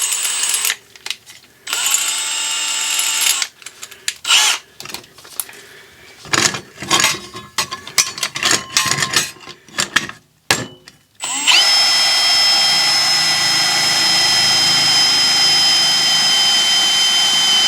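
Power drill boring into metal with a Milwaukee titanium-coated twist bit: two short bursts, then clattering and knocks, then from about two-thirds of the way in a steady run with a high whine. The bit is cutting slowly under heavy feed pressure and will go through only eventually.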